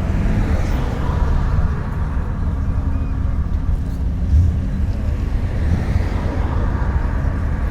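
A car engine running steadily, its pitch rising briefly at the start.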